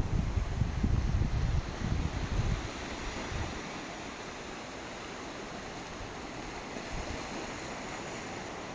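Sea surf washing steadily on the shore, with wind buffeting the microphone in gusts for the first couple of seconds before it drops away.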